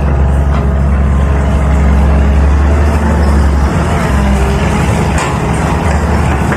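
Caterpillar 320 hydraulic excavator's diesel engine running loud and steady under work, its deep hum easing a little past halfway, with a few light knocks near the end.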